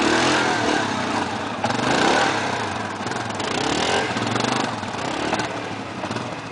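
Yamaha Grizzly 700 ATV's single-cylinder four-stroke engine revving, its pitch rising and falling several times, getting fainter toward the end.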